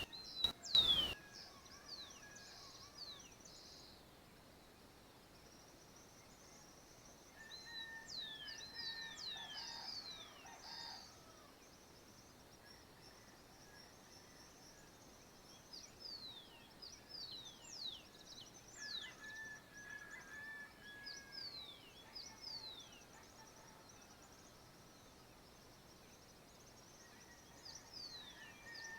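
Small birds chirping in the countryside dawn chorus: clusters of quick, high, falling whistled notes over a faint steady high hiss. A short sharp knock comes about a second in.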